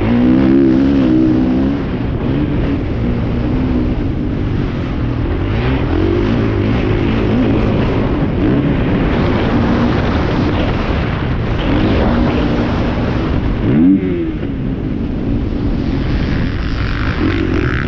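Motocross motorcycle engines running hard, their pitch rising and falling as riders go on and off the throttle, with one sharp rev up about fourteen seconds in.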